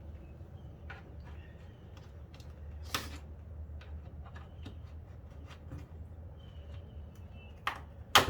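Scattered light clicks and taps of plastic car-seat trim being handled, with a sharper knock about three seconds in and two louder knocks near the end, over a steady low hum.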